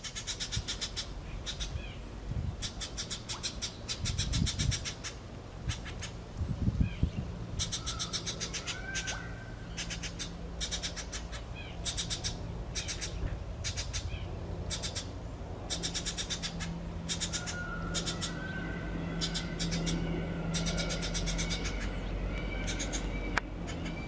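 Birds calling, with repeated bursts of rapid rattling clicks, each about a second long, and a few drawn-out calls in between.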